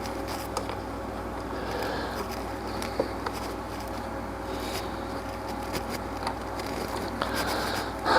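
Steady low hum with a faint steady whine, broken by a few light clicks of hand tools being handled, about three seconds in and again near the end.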